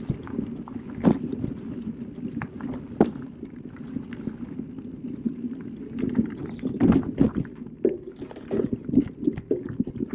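Specialized Turbo Kenevo SL e-mountain bike rolling over a forest trail: uneven tyre rumble with frequent irregular knocks and rattles from the bike.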